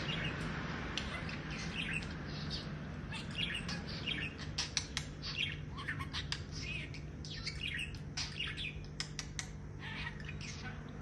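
Pet budgerigar chattering and warbling: a rapid, continuous run of short chirps, clicks and squawks, over a steady low hum.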